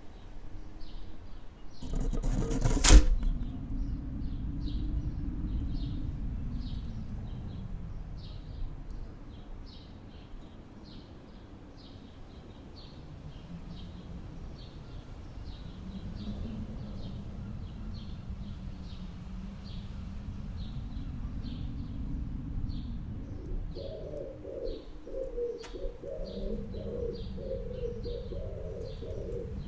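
Snowstorm wind gusting, rising and falling in waves, with a loud burst about three seconds in. Short high chirps repeat throughout, and a low pulsing, warbling sound joins near the end.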